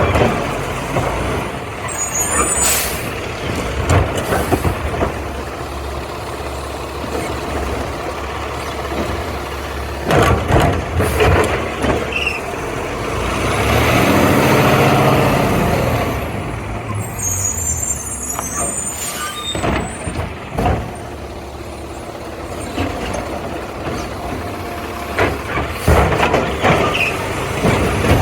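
Garbage truck running, its diesel engine rising in revs for a few seconds near the middle, with short hisses of air brakes and scattered clanks and knocks.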